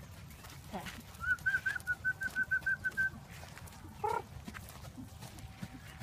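A bird calling: a quick, even run of about ten short, high chirps, then one brief lower call a second later.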